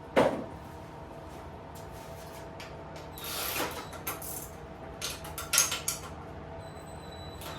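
Hand tools and metal minibike parts being handled during a teardown. A sharp knock comes just after the start, then a scraping rattle about three seconds in, and a few clinks around five to six seconds.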